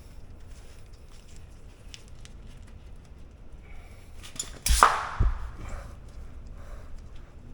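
Hand work on a brake caliper's glide pins: light scattered clicks and rustles, then a little past halfway a sharp metal clack followed half a second later by a dull thump.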